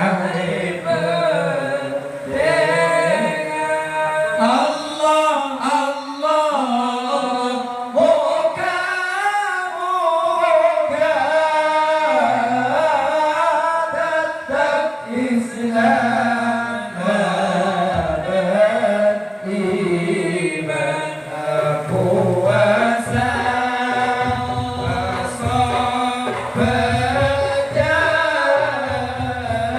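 A man singing a Madurese sholawat, an Islamic devotional song in praise of the Prophet, in long drawn-out phrases that slide up and down in pitch.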